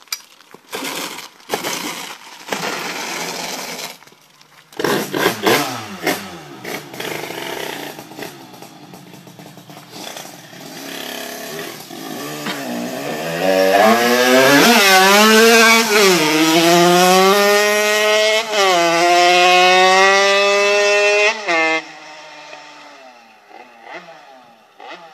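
Two-stroke Derbi Euro moped engine, kitted to 85cc with a Barikit kit, being revved: short uneven blips for the first few seconds, then the revs climb and are held loud and high, with the pitch swinging, from about 14 s to 22 s. The revs then drop off suddenly and the engine runs down quietly.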